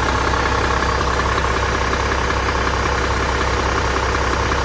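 2009 Mack MRU613 garbage truck engine idling steadily.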